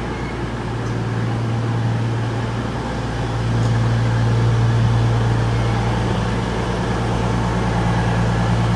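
Diesel engines of a CrossCountry Class 221 Voyager diesel-electric train running with a steady low hum. The hum grows louder about three and a half seconds in.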